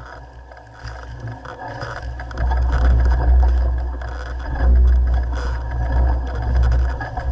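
Mountain bike running down a dirt trail: tyres rolling and scraping over dirt with a steady rattle of the bike. A heavy wind rumble on the microphone grows loud about two and a half seconds in as speed builds.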